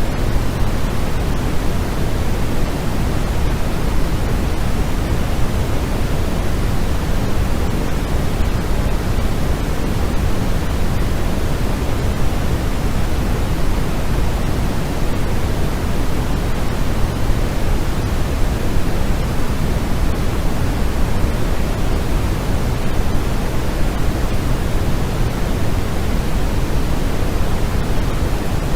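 Steady generated noise, sold as white noise: a constant, even rush with no changes or events, heavier in the low end than in the highs.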